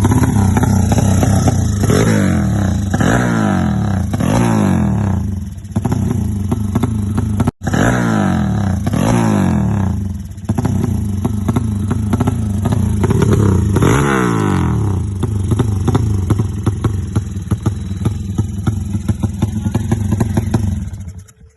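Motorcycle engine running and being revved over and over, the pitch sweeping up and dropping back several times: a newly set-up engine being tuned. The sound cuts out for an instant a third of the way through and stops abruptly near the end.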